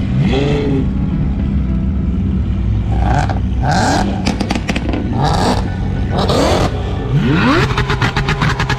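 Lamborghini engine revved in a series of short blips, its pitch sweeping up each time, then a long run of rapid crackling pops from the exhaust near the end as the revs fall.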